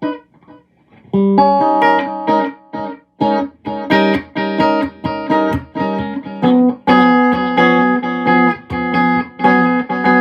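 Electric guitar played through a Visual Sound (True Tone) Dual Tap Delay pedal set to tap-tempo mode: a run of plucked chords starting about a second in, each ringing on into the next.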